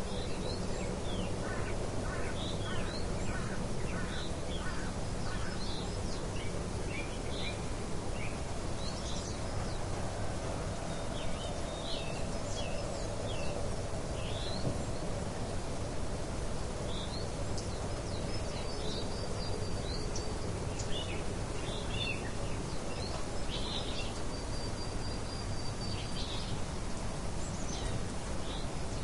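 Nature ambience of many birds chirping in short, scattered calls over a steady background hiss.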